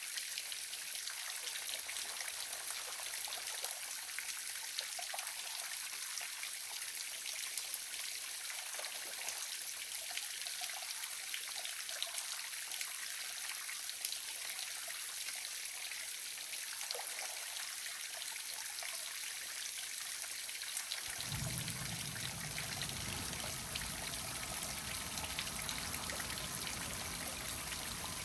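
Waterfall: a steady splashing hiss of falling water with many small spatters. About three quarters of the way through, a low rumble joins it and stays.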